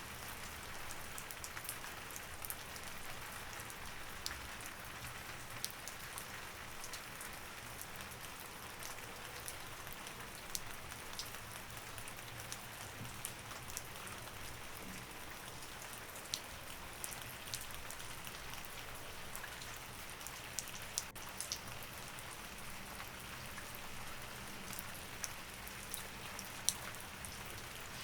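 Steady rain falling on a surface, with separate drops ticking sharply here and there.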